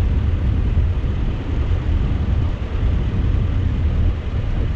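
1968 Buick Skylark convertible driving on the road, heard from inside the car: a steady low engine and road rumble.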